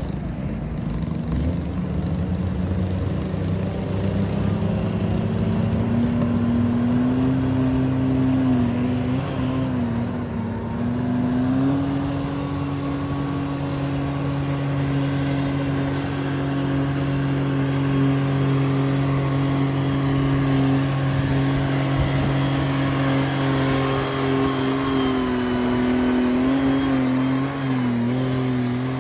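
Three-cylinder diesel garden tractor engine working hard on a pull. Its pitch climbs over the first several seconds, holds high and steady under load, then wavers and drops slightly near the end.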